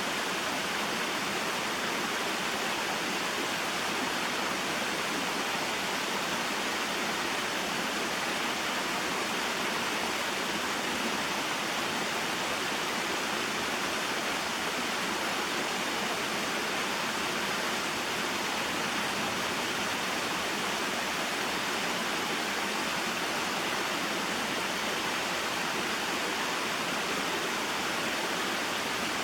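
Small mountain waterfall and stream flowing, a steady, unchanging rush of water.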